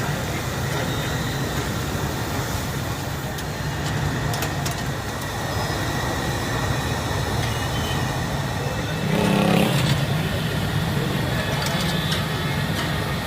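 Steady street traffic noise, a low running rumble, that swells louder briefly about nine seconds in.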